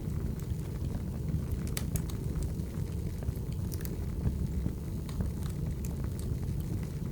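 Wood fire burning and crackling: a steady low rumble of the flames with irregular sharp pops and snaps from the burning logs.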